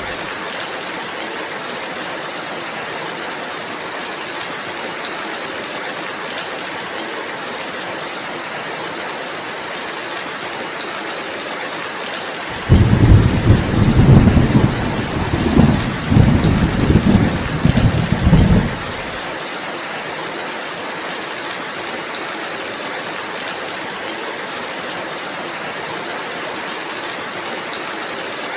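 Steady rainfall with a loud roll of thunder about halfway through. The thunder starts abruptly, rumbles low in several swells for about six seconds, then dies away under the rain.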